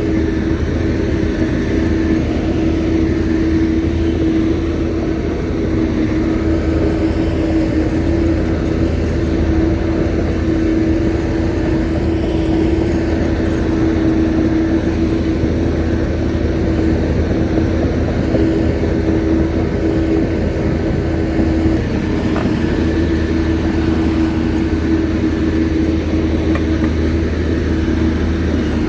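Shantui bulldozer's diesel engine running steadily under load, with a constant whine over a low rumble. There is one sharp knock about three-quarters of the way through.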